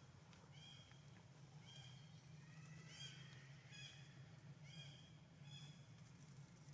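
Faint, short, high-pitched squeaking calls from a baby monkey, each rising and falling, repeated about once a second with a quick cluster near the middle, over a steady low hum.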